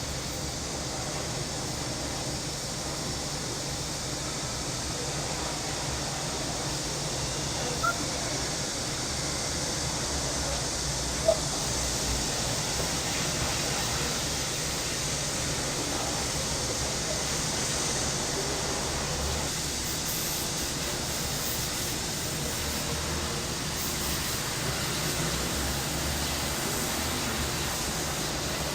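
Dense, steady chorus of summer cicadas, a continuous high-pitched hiss. Two short ticks come a few seconds apart in the first half.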